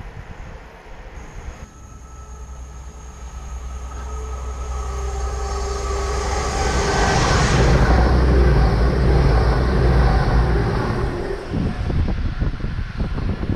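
Train passing at speed: a rumble with a steady whine that builds to a peak, then drops away, followed by rough buffeting near the end.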